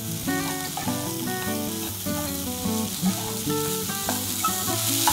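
Diced vegetables and sweet corn sizzling in a frying pan while a spatula stirs them, over instrumental background music.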